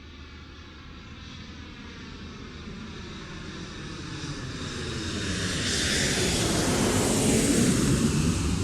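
A low-flying airplane passing overhead: its engine sound swells steadily, is loudest near the end, and drops in pitch as it goes by.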